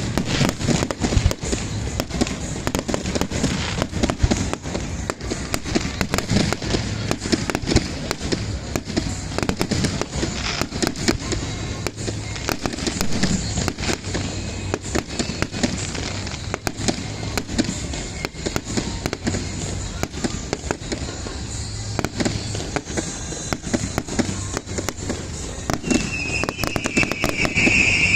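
Fireworks going off in quick succession: a dense run of bangs and crackles, with music playing underneath. Near the end a high steady whistling tone starts.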